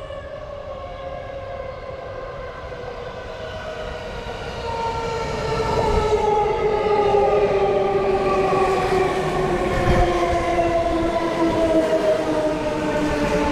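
Electric commuter train pulling into the station, its traction motors whining in a stack of tones that falls slowly in pitch as it brakes, growing louder about halfway through as it draws near, over the rumble of the wheels on the rails.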